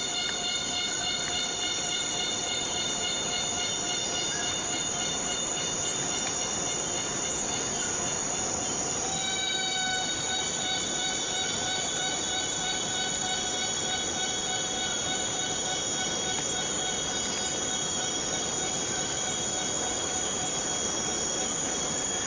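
Steady rainforest rain, a constant hiss, under a continuous high insect drone of several steady whining tones that shifts slightly in pitch about nine seconds in.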